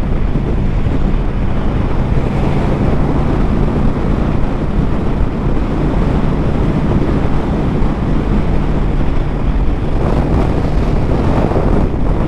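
Wind rushing steadily over the microphone of a motorcycle riding at highway speed, with the engine's low hum underneath.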